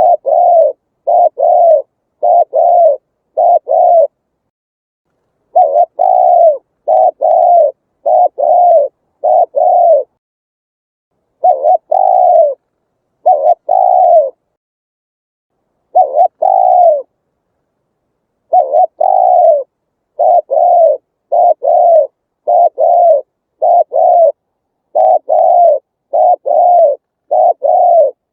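Spotted dove cooing: a run of low coos, each falling slightly in pitch, in phrases of several notes split by pauses of a second or two.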